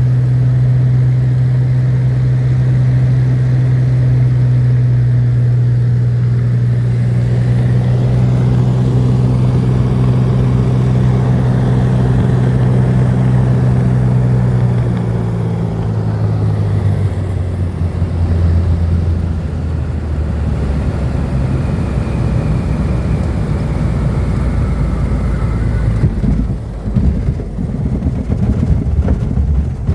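A small seaplane's engine and propeller droning steadily, heard from inside the cabin. About halfway through, the note drops lower as power comes off for the descent. In the last few seconds the sound turns to a rougher, uneven rumble.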